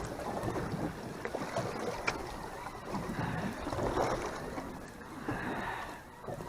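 Wind noise and sea sounds aboard a fishing boat, an even rush with a few faint clicks and knocks.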